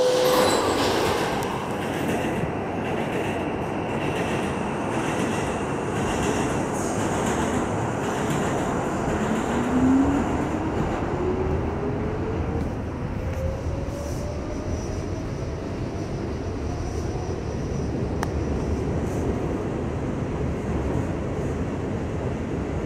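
Inside an R68 subway car on the move: steady wheel and track noise, with the traction motors' whine rising in pitch over several seconds near the middle as the train gathers speed.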